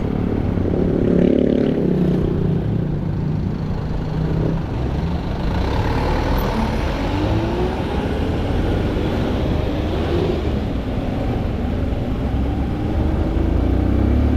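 Motorcycle engine running under way, its note climbing twice as it revs up through the gears, over a steady rush of wind and road noise.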